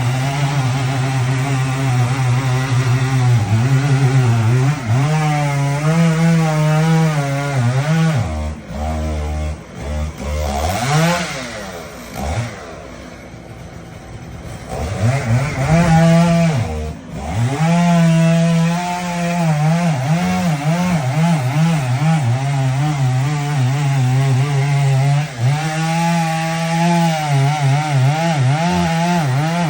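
Two-stroke chainsaw running at high revs and cutting wood, its pitch wavering as the chain loads and unloads. About halfway through it drops back to a quieter, lower note for a few seconds, then revs up and cuts again.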